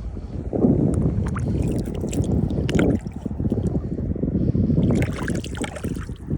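Wind buffeting the microphone: a gusting, uneven low rumble with a few small clicks.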